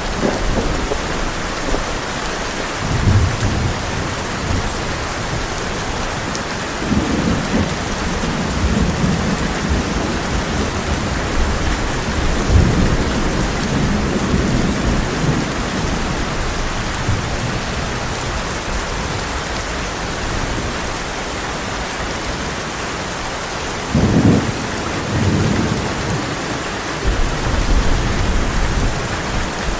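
Heavy rain pouring steadily on a tin roof, with low thunder rumbling several times: briefly about three seconds in, a long roll in the first half, and twice more near the end.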